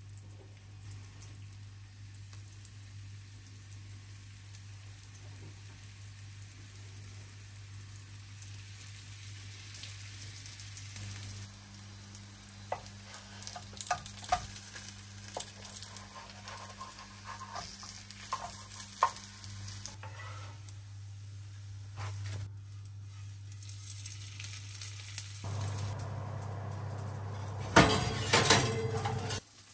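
Food sizzling in a frying pan, with a utensil tapping against the pan in the middle stretch and a louder clatter of cookware near the end. A low steady hum sits underneath.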